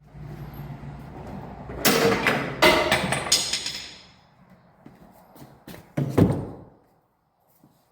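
Loud metallic clanks, three close together with a high ringing after them, then a few duller knocks, over a low steady hum that stops abruptly near the end.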